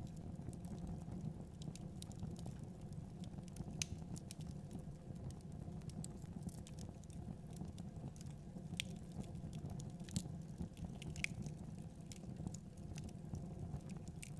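Wood fire crackling in a fireplace: irregular sharp pops and snaps over a steady low rumble of burning, with a few louder pops scattered through.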